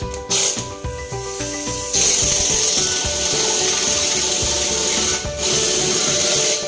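Hissing spray or air blast, a short one just after the start and then two long ones, over background music.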